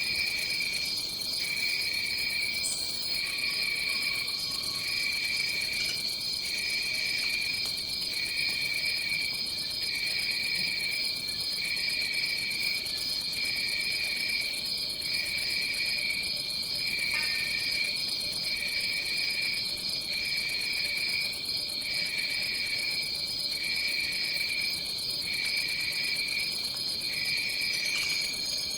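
Tropical rainforest insect chorus: a continuous high, fluttering trill with a second, lower call pulsing on and off about once a second.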